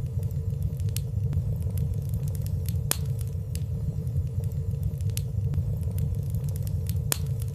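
Wood fire burning with a steady low rumble of flames and scattered light crackles, a sharper snap about three seconds in and another near the end.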